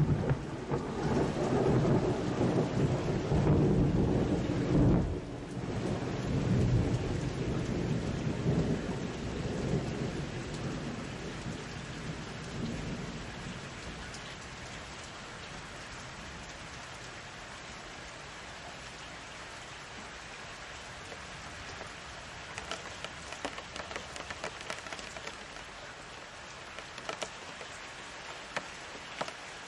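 Thunderstorm. A long roll of thunder dies away over the first dozen seconds into steady rain. Later, close raindrops tap sharply over the rain.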